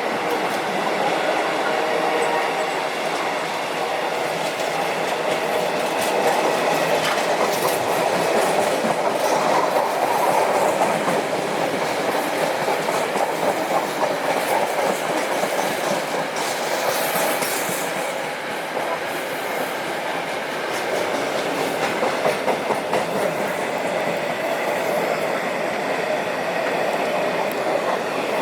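A train rolling past on the track, its wheels clattering steadily over the rail joints.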